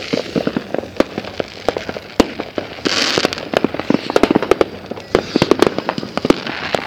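Fireworks crackling: a rapid, irregular run of sharp pops, with a hissing spray about three seconds in.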